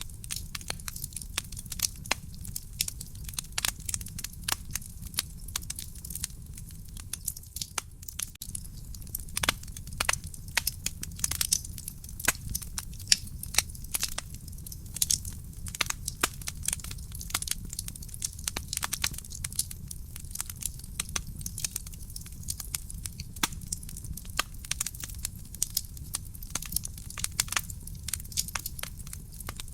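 Wood fire burning in a fireplace, crackling steadily with many small irregular pops and snaps over a low steady rumble of the flames.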